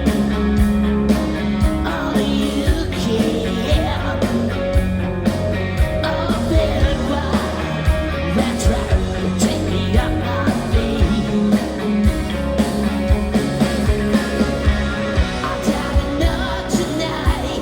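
Live rock band playing with a singer, drums keeping a steady beat.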